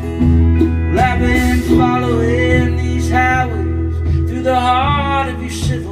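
Live country-folk rock band playing: guitars, bass and drums with a steady beat, and a bending lead melody carried over the top.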